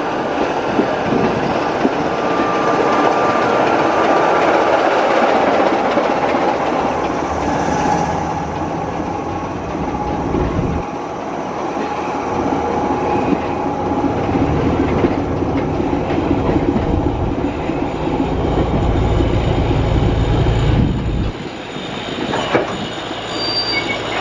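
Mk1 railway coach running along the line behind a diesel locomotive, a continuous rumble of wheels on rail with clickety-clack over the joints. A deeper rumble swells and then drops off suddenly about 21 seconds in.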